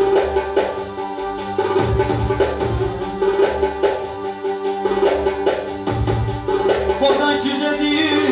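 Instrumental Albanian folk music: plucked strings and held tones over a regular drum beat, with a wavering, ornamented high melody line coming in near the end.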